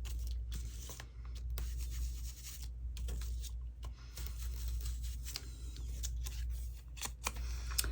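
Distress ink being rubbed onto the edges of a paper cutout: irregular light scratching and rubbing strokes of the ink applicator against the cardstock.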